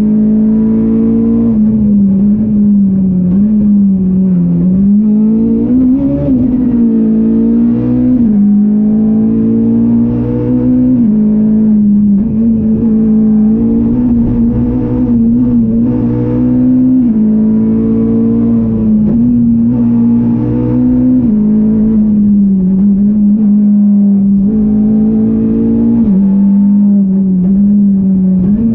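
Ford Fiesta R200 rally car's engine heard loud from inside the cabin at stage pace, the revs rising and dropping several times through the gears.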